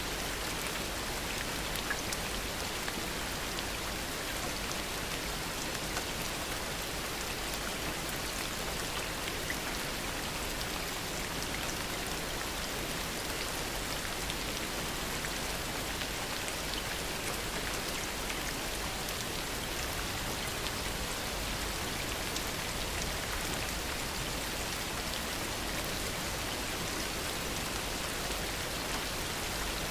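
Steady heavy rain, an even wash of noise with scattered sharp drop hits and no changes in level.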